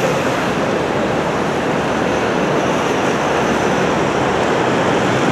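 Steady rushing rumble of rail and city noise around an elevated railway, slowly growing louder as an electric commuter train approaches.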